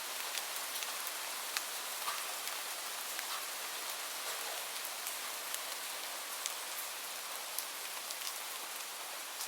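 Steady rain falling on a surface: an even hiss with many scattered drop ticks.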